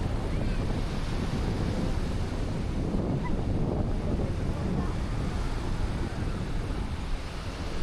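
Black Sea surf washing onto the shore, with wind buffeting the microphone.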